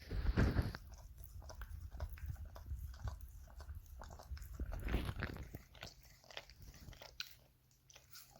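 A dog chewing and biting on a toy: a run of irregular clicks, loudest just after the start and again about five seconds in.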